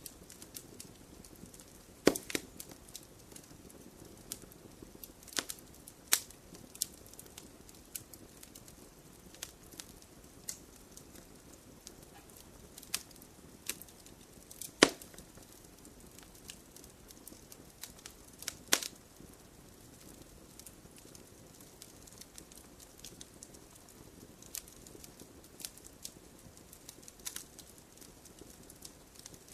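Wood campfire crackling: irregular sharp pops and snaps, the loudest a little after 2 s, at about 15 s and near 19 s, over a soft low hiss of the burning fire.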